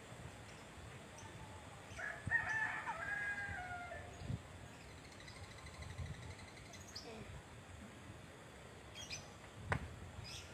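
One long bird call about two seconds in, lasting roughly two seconds and falling in pitch at its end, then a sharp click near the end.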